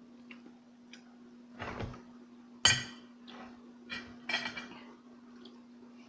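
Cutlery clinking against dishes while eating: a ringing clink about two and a half seconds in, the loudest, then a couple more about a second and a half later. A steady low hum runs underneath.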